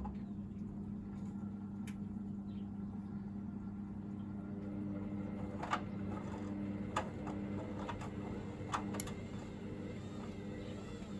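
Hoover VisionDynamic washing machine draining before its final spin: a steady mechanical hum, likely from the drain pump, with a few sharp clicks or knocks from the machine at irregular moments.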